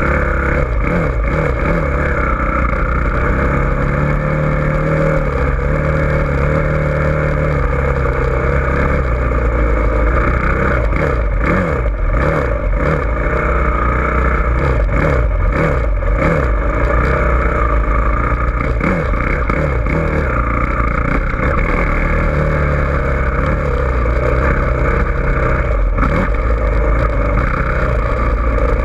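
Dirt bike engine running and revving, its pitch rising and falling continuously, over a constant low rumble.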